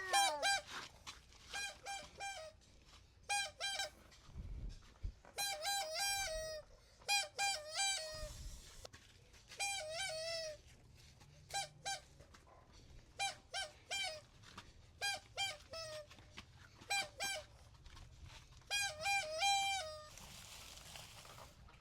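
Domestic fowl, chickens, giving short pitched calls in quick groups of two to four, repeated about once a second.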